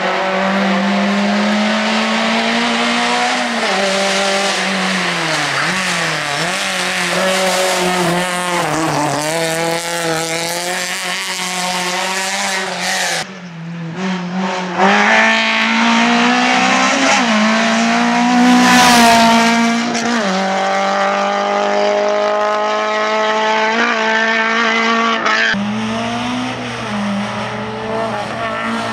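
Skoda Favorit rally car driven hard, its engine revving up and falling back again and again through gear changes, with tyre noise. The sound drops away briefly about 13 seconds in.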